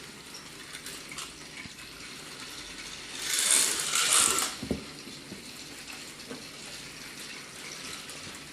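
Battery-powered Trackmaster toy engines running on plastic track, a small gear motor whirring and clicking. There is a louder rushing noise about three seconds in, then a single click.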